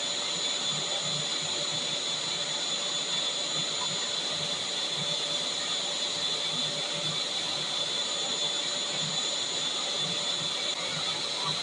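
Vacuum cleaner running steadily: an even rush of air with a constant high whine from its motor.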